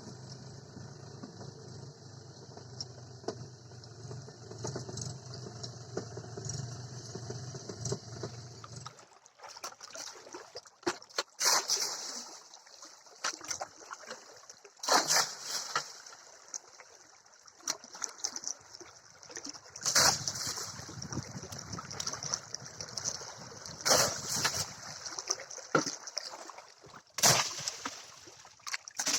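River water splashing and sloshing in irregular bursts as a tractor is washed. A steady low hum runs underneath for about the first nine seconds, then stops.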